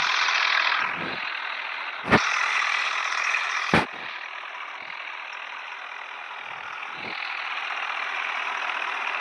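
Tractor engine running steadily, with two sharp clicks about two and four seconds in.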